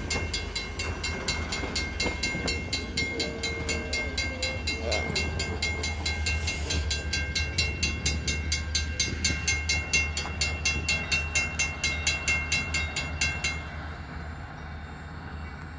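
Railroad grade-crossing bell ringing in rapid, even strikes over the low rumble of tank cars rolling past. The bell cuts off suddenly near the end, leaving a fainter rumble as the train clears the crossing.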